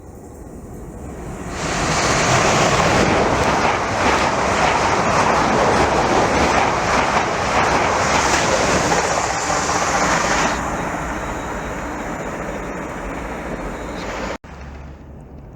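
A train passing at speed: an even rush of wheel and air noise that builds over the first couple of seconds, stays loud for about eight seconds, then eases off before cutting off suddenly near the end.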